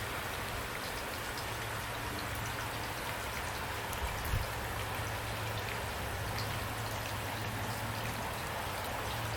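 Steady rain, an even hiss with scattered individual drops ticking, over a steady low hum. A brief low thump about four seconds in.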